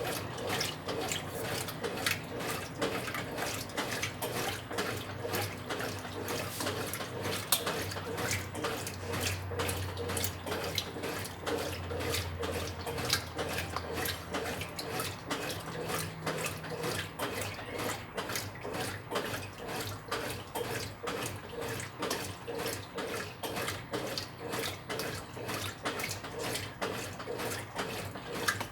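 Brastemp 9 kg washing machine in its wash cycle: water splashing and churning in quick, even pulses over a steady low motor hum.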